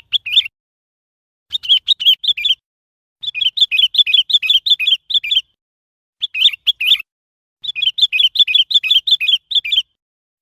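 Sooty-headed bulbul calling in about five quick bursts of repeated high chirps, several notes a second, with short silent gaps between the bursts.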